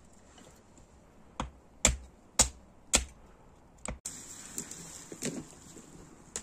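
Five sharp knocks in a row, about half a second apart, then a faint steady hiss with scattered light clicks.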